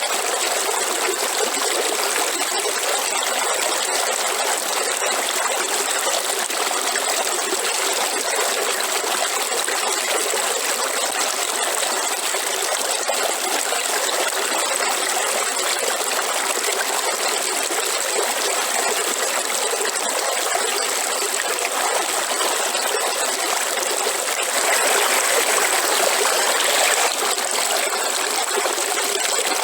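Waterfall: a steady rush of falling water, briefly a little louder near the end.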